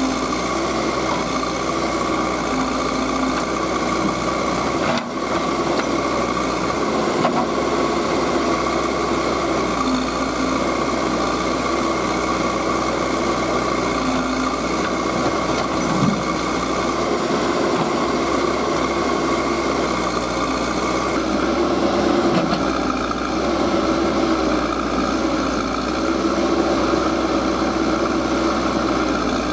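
Diesel engine of a working tractor or backhoe loader running steadily, with a brief break about five seconds in.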